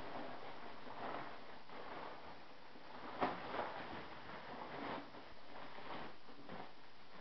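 Rustling and handling of packing material being pulled apart, with a sharp knock about three seconds in.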